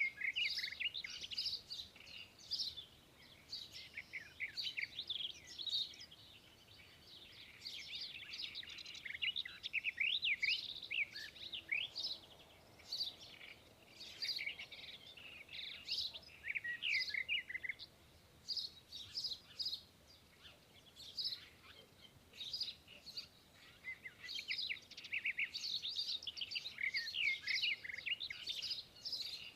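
Many small birds chirping and twittering together, a dense chorus of quick high calls that eases off for a few seconds past the middle and then picks up again.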